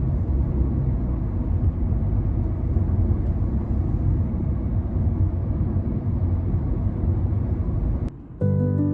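Steady low rumble of a moving vehicle, which cuts off abruptly near the end.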